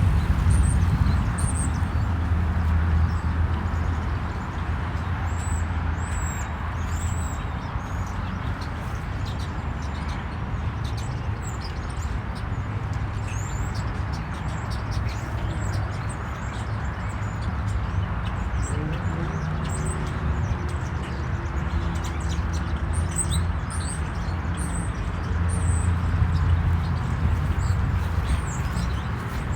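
Small birds chirping in short, high calls here and there over a steady low rumble and hiss.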